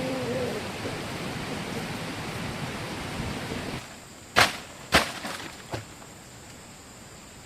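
A steady rushing noise. About four seconds in it gives way to two sharp chopping blows into bamboo, about half a second apart, followed by a few lighter knocks.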